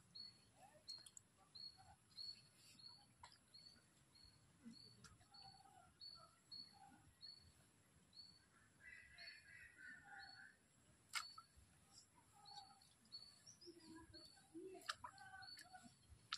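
Faint outdoor ambience of small birds: a short high chirp repeated about twice a second, with scattered lower calls. There are two sharp clicks, about eleven and fifteen seconds in.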